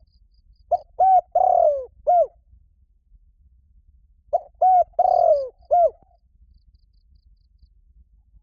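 Spotted dove cooing: two identical four-note phrases about three and a half seconds apart, each with two short coos, a longer falling note, then a short final coo. This is the male's advertising call, used as a decoy call to draw in wild doves.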